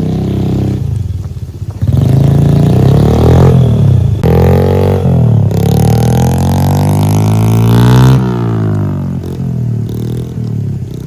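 Honda dirt bike engine revving up in three rising pulls, then dropping back to a low, steady idle about eight seconds in.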